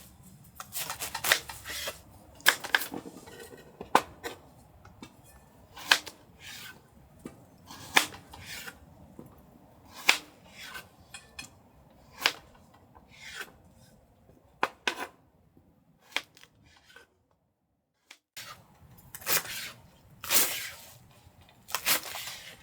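A series of sharp knocks and clicks, about one every second or two, with faint scraping and rubbing between them, like hard objects being handled and set down. There is a moment of complete silence about three-quarters of the way through.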